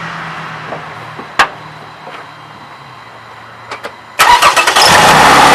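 A sharp click, then about four seconds in a 2007 Toyota 3.5-litre V6 cranks briefly on the starter and catches on a cold start, running loud and steady.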